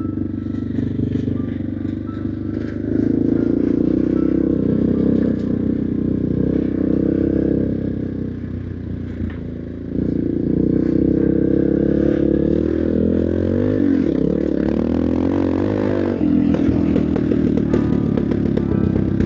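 1999 BMW F650 Funduro's single-cylinder engine running while the bike is ridden. It gets louder a few seconds in, eases off about halfway, then pulls again, with its pitch rising and falling later on.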